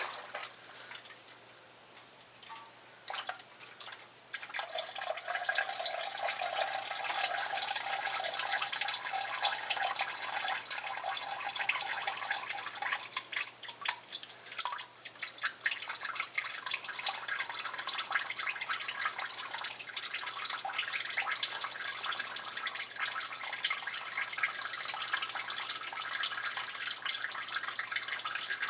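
Old engine oil from a 2009 Ram draining out of the oil pan into a catch pan: a stream starts suddenly about four and a half seconds in and keeps splashing and pattering steadily. A pouring tone sits in it for the first several seconds of the flow.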